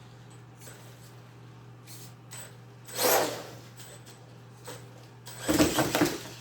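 Venom Mini Giant RC monster truck's brushless electric motor whirring in two short throttle bursts, about three seconds in and again near the end, over a steady low hum.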